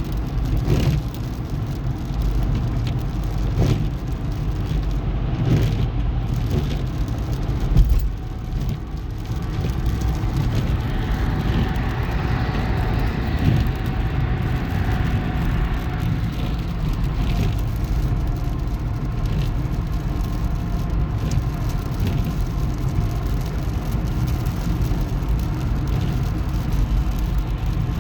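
Road and tyre noise inside a moving car: a steady low rumble with a few brief thumps, the loudest about eight seconds in.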